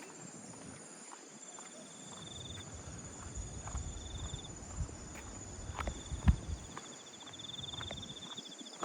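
Footsteps on a walking path, with insects trilling steadily and a pulsing trill that comes and goes. A low rumble swells in the middle, with a thump about six seconds in.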